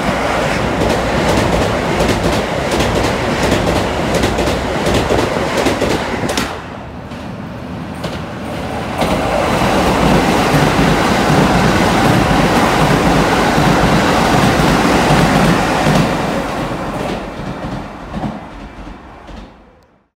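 Two electric commuter trains running through the station one after the other. First a Keisei 3000-series train, its wheels clacking sharply over rail joints. Then, after a short lull about seven seconds in, a red Keikyu train passes at speed with a steady loud rumble that fades away near the end.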